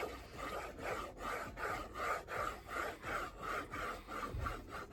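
Paper being rubbed back and forth in quick strokes, about three a second, as a glued layer of the folio is pressed down.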